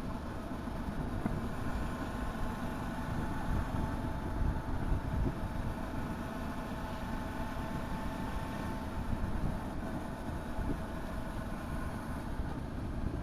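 Motorcycle engine running at a steady road speed, its pitch holding level, over a constant low rumble.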